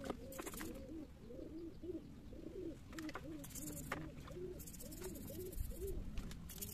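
Birds cooing over and over, several overlapping calls of rising-and-falling coos. Short scratchy hisses and light clicks come in now and then as the surface of the potting soil is worked with a hand tool.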